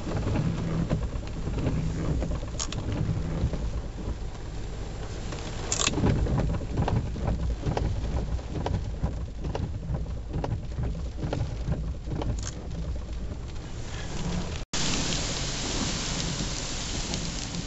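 Heavy hurricane rain and wind: a steady hiss of downpour with low rumbling gusts buffeting the microphone and a few brief crackles. About 15 s in the sound cuts and the rain comes back as a stronger, hissier downpour.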